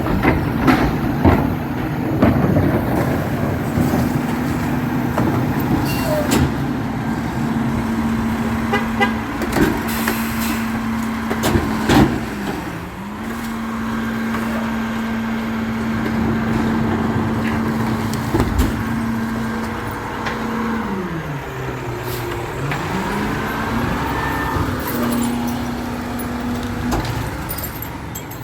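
Garbage truck engine running at a steady raised speed, its pitch dipping and coming back up twice, once briefly and once for about two seconds, with a few sharp clanks.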